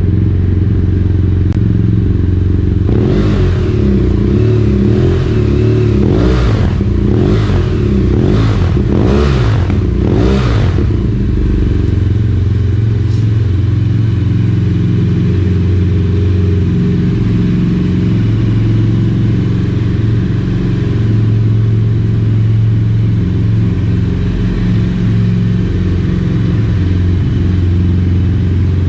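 BMW F800R parallel-twin engine running through an aftermarket Yoshimura exhaust. It idles steadily, is blipped about six times in quick succession a few seconds in, then settles back to a steady idle.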